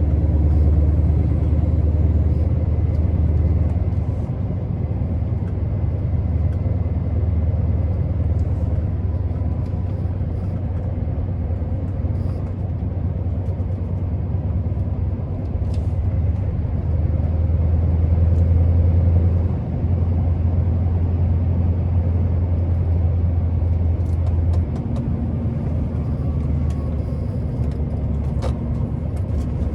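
Scania R650's 16-litre V8 diesel engine running under way with a steady low drone; its note shifts several times, with a brief sharp dip about two-thirds of the way in.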